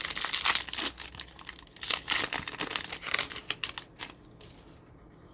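Foil trading-card pack wrapper crinkling as it is torn open and handled, for about four seconds.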